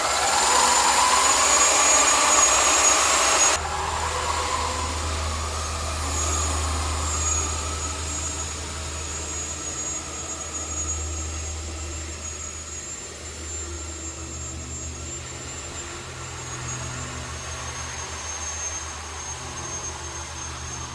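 Engine and propeller of a Cessna Skylane single-engine plane flying past. The sound is loudest at first, drops suddenly about three and a half seconds in, then continues steadily and slowly fades.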